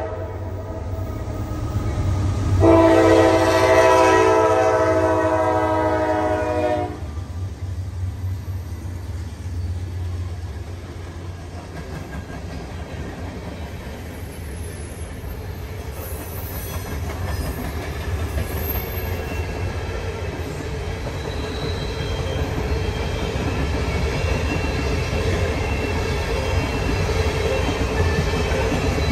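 Norfolk Southern freight locomotive's air horn sounds one long chord-like blast a few seconds in. Then the train's coal hopper cars roll past with a steady rumble of steel wheels on the rails.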